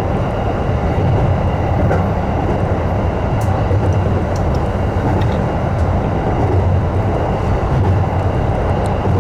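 Electric commuter train running steadily at speed: a continuous low rumble of wheels on rail with running noise, heard from inside the leading car.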